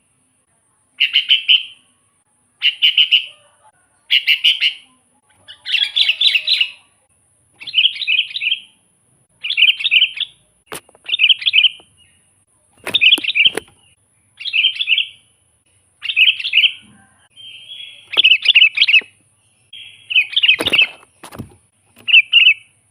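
Sooty-headed bulbul (kutilang) singing a run of short, chattering phrases, one about every second and a half. A few sharp clicks cut in, about eleven, thirteen and twenty-one seconds in.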